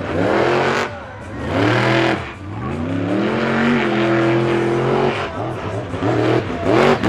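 Monster truck engine revving hard in repeated surges, the pitch climbing and dropping, with a longer held rev in the middle.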